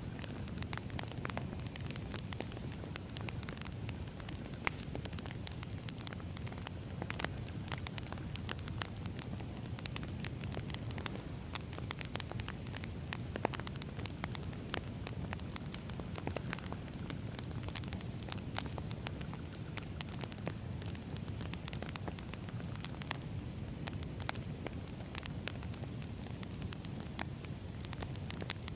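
Firewood burning, crackling and popping with a steady low rumble of flame under scattered sharp snaps.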